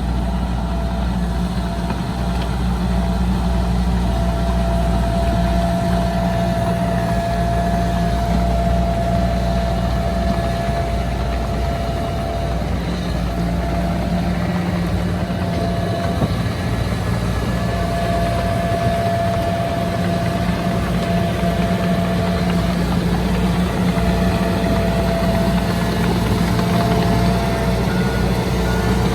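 Diesel engine of heavy earthmoving machinery running steadily, with a high whine that comes and goes.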